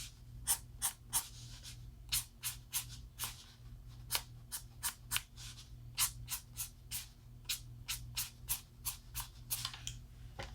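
Alcohol marker tip flicked across paper in quick short strokes, a brief scratch with each stroke, about three a second, as hair is coloured in.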